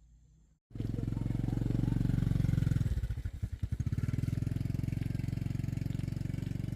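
A small engine running steadily. About three seconds in, its note briefly drops and pulses unevenly, then steadies again.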